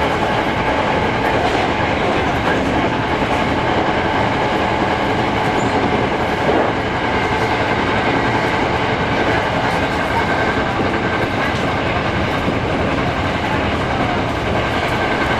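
Hankyu 6300-series electric train running at speed, heard from on board: a steady rumble with wheels clicking over the rail joints. It starts abruptly and holds steady throughout.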